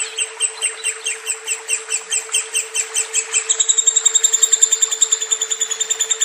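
Lovebird chattering in a long unbroken run of sharp, high chirps, speeding up about halfway through into a quicker, more even trill. A steady low hum runs underneath.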